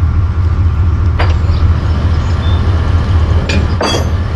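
Steady low rumble of a moving vehicle, with a few brief clatters about a second in and twice near the end.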